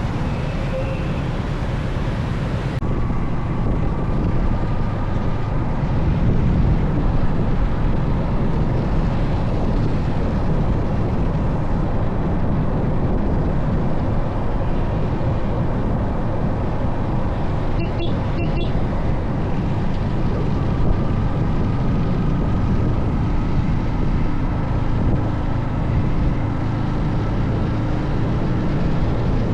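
Steady rumble of wind and road noise on the microphone of a moving motorcycle, heaviest in the low end, with a couple of brief clicks about 18 seconds in.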